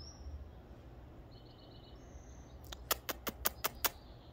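Faint bird chirps, then, a little under three seconds in, a quick run of about seven sharp clicks at some six a second.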